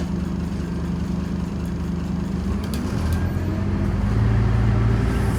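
Diesel engine of a Scania Omnicity city bus heard from inside the cabin, running with a steady hum; about three-quarters of the way through its note shifts lower and it gets louder.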